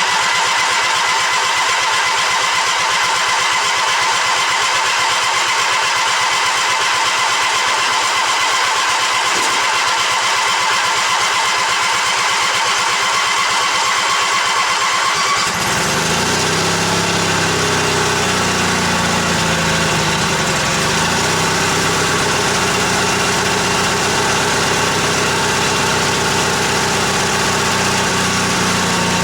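Cold start of a 1979 Yardman tractor's 16 hp Briggs & Stratton opposed-twin engine after sitting for months, on choke. The starter cranks it steadily for about fifteen seconds before the engine catches. It wavers in speed for a few seconds, then settles into a steady run.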